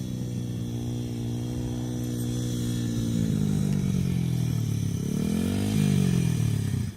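Small dirt bike engine running steadily, then rising in pitch about three seconds in as throttle is given, dipping, and revving up again before dropping back near the end.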